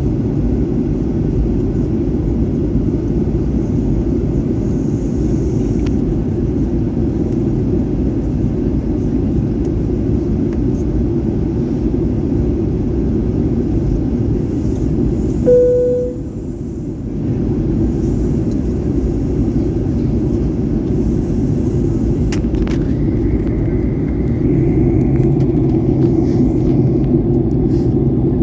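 Airliner cabin noise in flight on the descent: a steady low rush of engines and airflow heard from inside the cabin. A short tone and a brief drop come about halfway through, and a steadier hum joins near the end.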